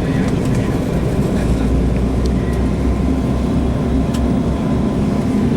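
Steady engine and airflow noise of an airliner heard from inside the passenger cabin, with a faint steady whine and a few light clicks.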